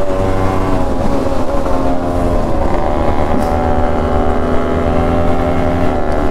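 Two-stroke single-cylinder engine of a tuned Yamaha RX135, heard from the saddle at steady cruising speed, with a second Yamaha RX motorcycle running alongside. The engine note holds fairly steady, wavering only slightly in pitch.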